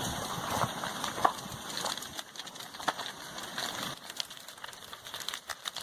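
Slow lava flow crackling: irregular sharp clicks and snaps with a low rustle underneath, busier in the first couple of seconds.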